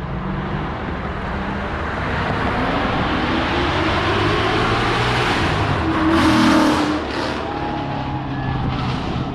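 A car's engine revving hard as the car accelerates away past the listener, growing louder to a peak about six seconds in, then easing off.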